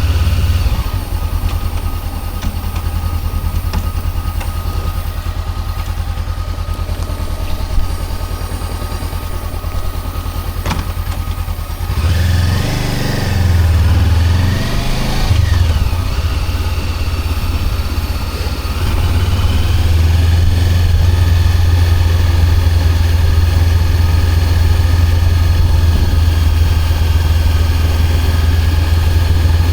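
Honda CB400X parallel-twin engine idling steadily, then revved up and down a few times about twelve seconds in, and running louder and steadier from about nineteen seconds on.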